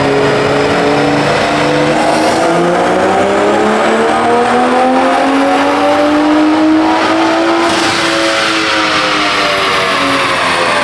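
A car engine under load on a chassis dyno, pitch climbing steadily in one gear for about five seconds, then easing off and winding down slowly. A faint high whine rises along with it.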